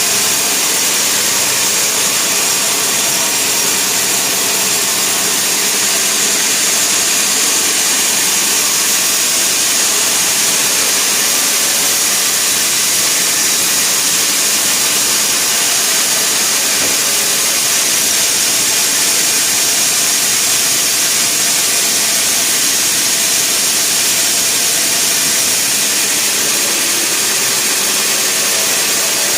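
Sawmill saw running steadily: a loud, even noise with a strong high hiss and no breaks.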